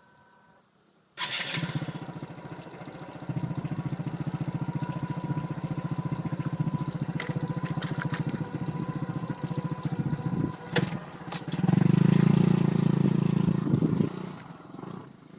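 Motorcycle engine starting about a second in, then running with a fast, even beat. It gets louder for a couple of seconds near the end, as if revved, then drops away.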